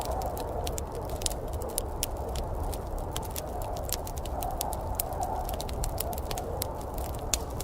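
Wood fire crackling, with frequent sharp irregular pops and snaps over a steady low rushing background.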